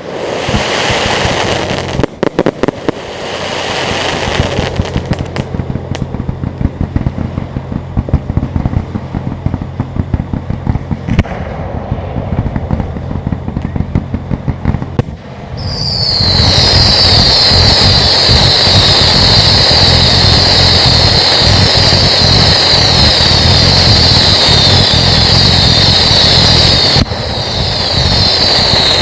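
Fireworks display: crackling and popping bursts over a steady low hum. About halfway through, a loud, continuous high-pitched screech of whistling fireworks sets in and runs for about twelve seconds before cutting off near the end.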